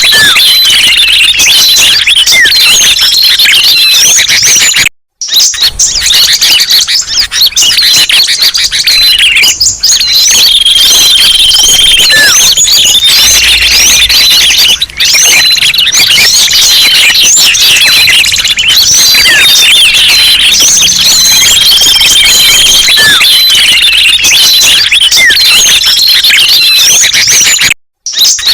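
Bird-lure recording of many small songbirds chirping and whistling at once, loud and dense, with the same sequence repeating about every ten seconds. It cuts out for a moment about five seconds in and again near the end.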